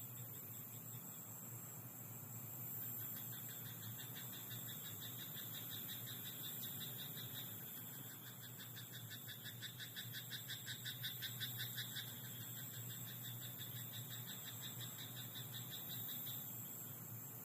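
Frogs croaking in a rice paddy, in fast rapid-pulse choruses that swell and fade, loudest about ten seconds in, over a steady high hiss.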